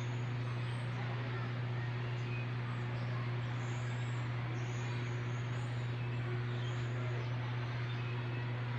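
A steady low machine hum over a constant hiss, with faint high chirps now and then.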